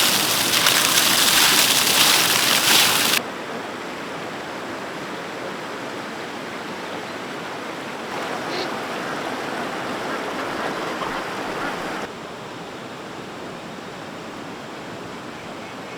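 Steady rushing noise of running water, with no distinct tones. It drops sharply in level about three seconds in and again about twelve seconds in.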